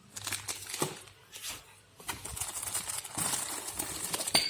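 Packaging rustling and crinkling as accessories are handled and unpacked, in short bursts at first and then more continuously, with a sharp click near the end.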